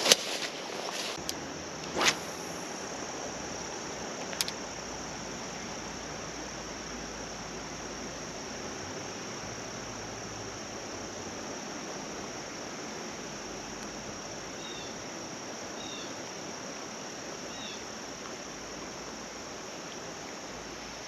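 Steady rushing of flowing river water, with a continuous high insect trill over it. A few sharp knocks come in the first few seconds, and three short chirps come about two-thirds of the way through.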